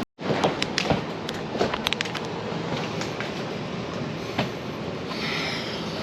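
Light clicks and taps of hand work at a wall switch box, a quick cluster in the first two seconds and one more after about four seconds, over a steady background hiss.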